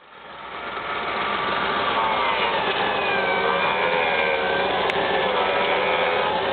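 UAZ's transplanted GAZ-66 V8 petrol engine running steadily, fading in over the first second.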